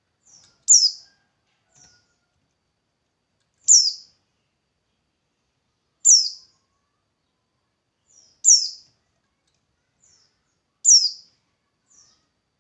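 A songbird repeating a short, high call that falls in pitch, five times at about two-and-a-half-second intervals, with fainter short chirps in between.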